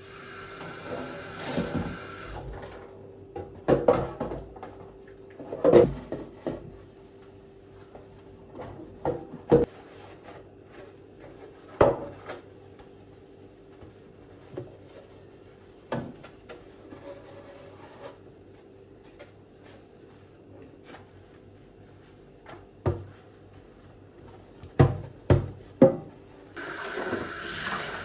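Household items being handled and set down: a series of separate knocks and clacks, a few of them louder, over a faint steady hum. A hiss stops about two and a half seconds in and starts again near the end.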